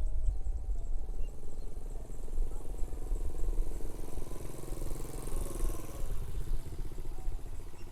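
A motorcycle engine passing by, growing louder to a peak about five seconds in and then fading away, over a low steady rumble.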